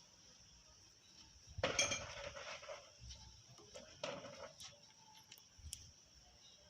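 Metal tools and parts clinking and clanking against metal while oil is drained from a small tractor's engine: a loud cluster of clanks about two seconds in and a shorter one about four seconds in, then a few light ticks.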